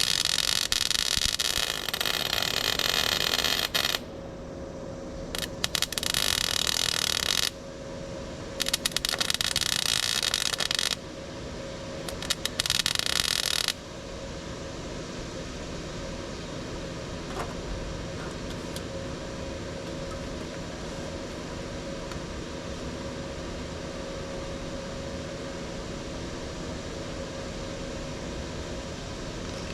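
A power tool run in four loud bursts of a few seconds each, over a steady background hum that carries on alone through the second half.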